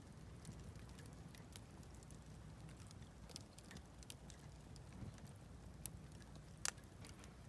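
Wood campfire crackling quietly, with scattered sharp pops and one louder crack near the end.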